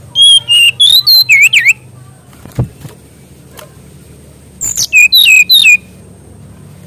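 Songbird singing two quick phrases of high, sweet whistled notes with fast pitch swoops, each about a second and a half long, the first just after the start and the second past the middle. A single sharp click falls between them.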